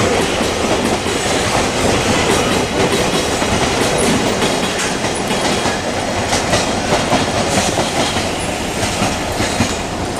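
A train running past close by, its wheels clattering steadily over the rail joints.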